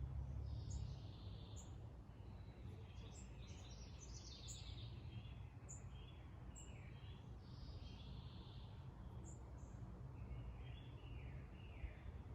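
Birds chirping and singing, with short high chip notes scattered through and busy warbling phrases, over a faint steady low rumble.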